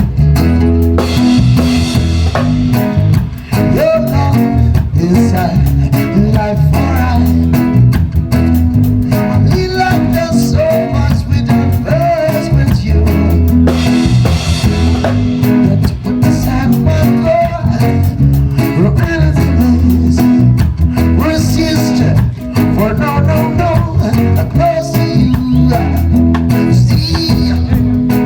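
A small live band playing an upbeat reggae-style groove, with guitar, a heavy bass line and drums, and a lead melody line over it.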